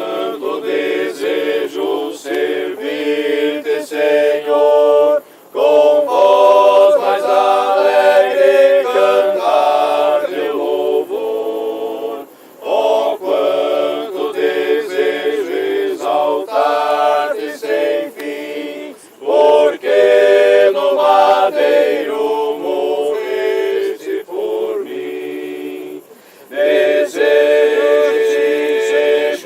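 A group of people singing together, in phrases of about seven seconds with short breaks between them.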